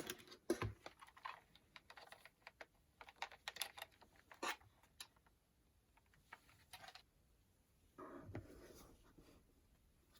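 Faint typing on a computer keyboard: irregular, soft key clicks, with a longer rustle about eight seconds in.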